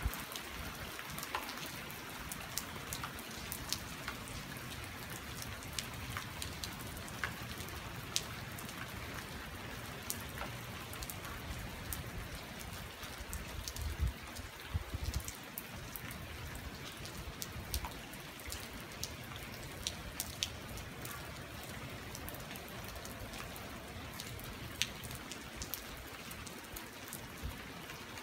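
Steady rain falling on a street at night, an even hiss with many sharp ticks of drops striking nearby surfaces. A brief low rumble comes about halfway through.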